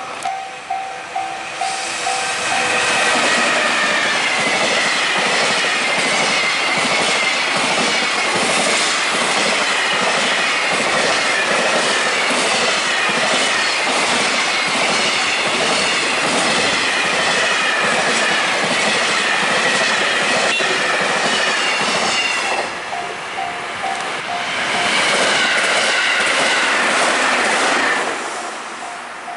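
A train passing close by at a level crossing, its wheels clattering rhythmically over the rail joints. The clatter dips briefly about 22 seconds in and returns for a few more seconds. The crossing's warning bell rings at the start and again at the end, once the train noise dies down.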